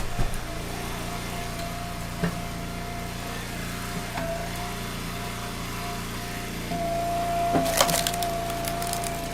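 Log splitter running steadily with a held whine, splitting firewood rounds: a few knocks, then wood cracking and splintering about three-quarters of the way through.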